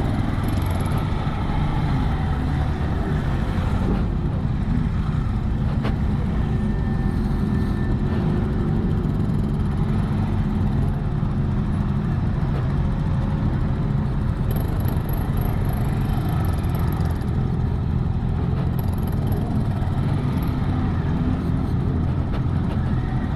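Yamaha XT 600E's single-cylinder four-stroke engine running steadily as the motorcycle is ridden, heard from on the bike.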